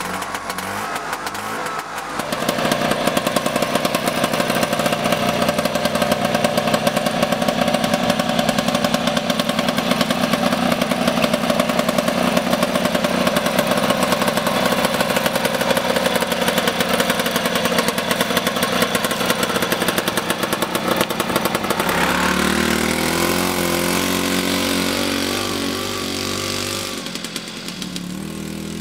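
SMZ S-3D microcar's IZH-P3 air-cooled two-stroke engine running with a rapid, buzzy beat. It gets much louder about two seconds in and holds steady for a long stretch. Later the note changes and rises in pitch as it revs, then settles a little lower near the end.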